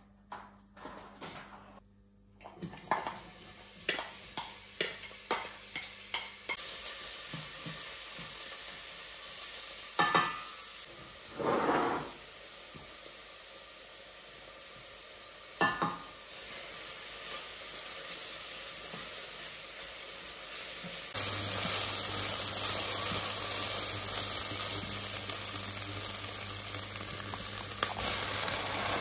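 Food sizzling in a frying pan, with utensils clicking, knocking and scraping against the pan. A run of quick clicks comes first, then the steady sizzle with a few louder scrapes, and the sizzle gets louder about two-thirds of the way through.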